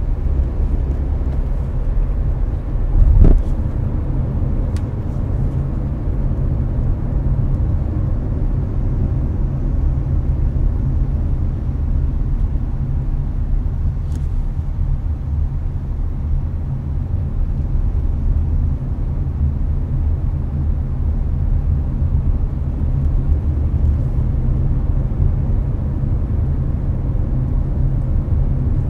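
Hyundai Avante cruising on an expressway, heard from inside the cabin: a steady low road and engine rumble with the air-conditioning fan blowing. A single louder thump comes about three seconds in.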